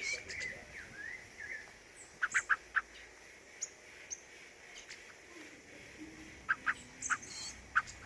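A small bird giving short, sharp call notes: a quick run of four about two seconds in, then single notes and pairs near the end.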